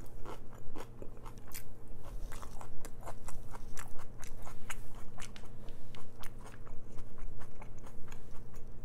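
Close-miked chewing of crinkle-cut french fries: a dense, irregular run of crunches and small mouth clicks.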